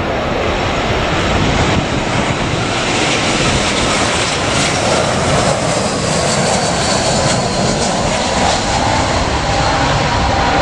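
Airliner engines, a loud steady rush with a faint whine running through it.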